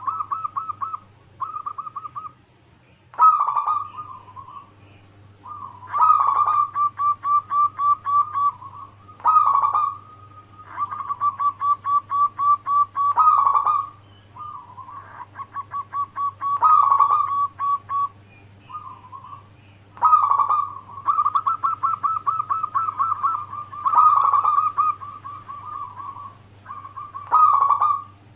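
Zebra dove (perkutut) singing: phrases of rapid, staccato cooing notes, repeated again and again with short pauses between, over a faint steady low hum.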